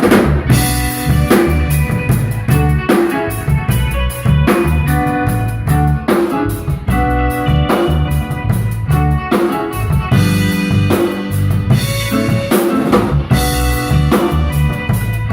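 Live instrumental band playing: a drum kit keeping a steady beat with kick and snare, under a moving bass line and held chords.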